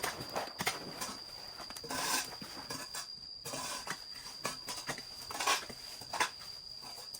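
Irregular clicks, knocks and rustling of objects being handled, over a steady faint high-pitched whine.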